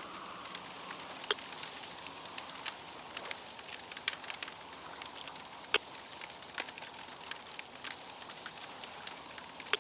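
Fire crackling over a steady hiss, with frequent small pops and a few sharper, louder snaps.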